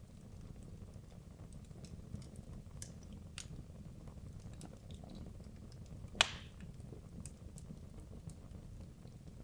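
Wood logs burning in a fireplace: a low, steady flame rumble with scattered small crackles, and one loud, sharp pop about six seconds in.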